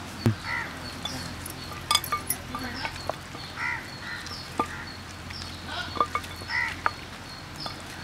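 Birds calling a few times in short, nasal, honk-like calls, with sharp clicks and knocks between them.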